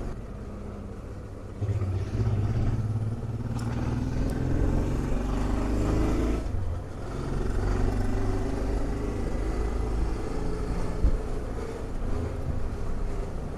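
Honda Transalp XL650V's V-twin engine pulling up through the revs, easing off briefly about halfway, then pulling up again as the motorcycle rides on, with a low rumble of road and wind.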